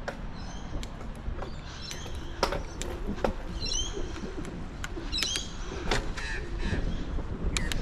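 Bicycle ridden over wet, rough ground: a steady rumble of tyres and wind on the mic, with sharp rattling clicks and short high squeaks about once a second.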